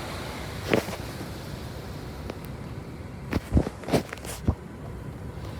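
Automatic car wash spraying Rain-X onto the car, heard from inside the car as a steady hiss, with a few sharp knocks or pops in a cluster about three and a half to four and a half seconds in.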